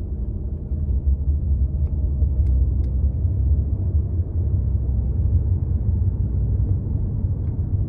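Steady low rumble of a moving car, with a few faint ticks over it.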